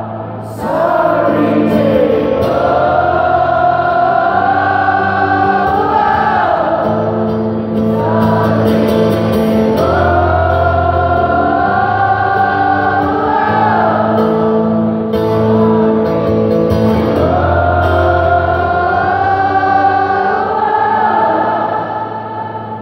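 Live acoustic band music: long, drawn-out sung phrases in a choir-like blend of voices over held low chords, fading slightly near the end.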